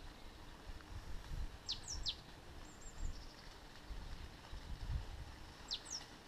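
Small songbird calls: quick high whistles sweeping downward, a pair about one and a half seconds in and another pair near the end, with a few short high notes between, over a low uneven rumble.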